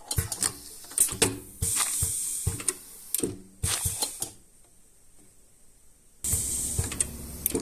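Pad printing machine working: a run of sharp mechanical clicks and clacks, with repeated bursts of hissing. The longest burst of hissing starts near the end.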